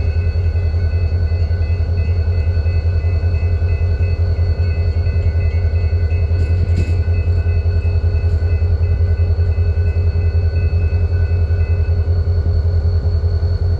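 Florida East Coast freight train with its diesel locomotives running: a steady low rumble with several steady higher tones over it, one of which stops near the end. A faint short click sounds about halfway through.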